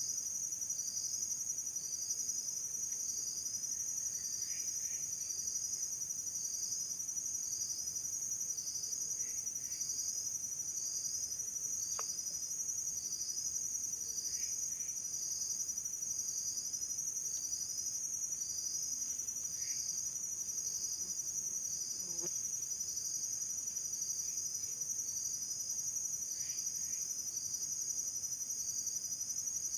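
Insects chirring steadily at a high pitch, with a shorter pulsed call repeating about once a second. Faint short chirps come in now and then.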